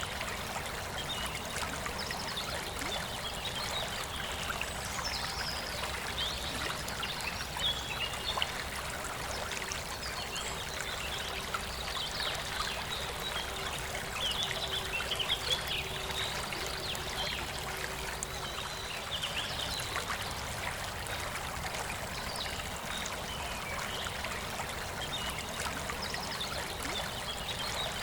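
Forest river flowing steadily, with birds singing in short chirps over the rush of the water.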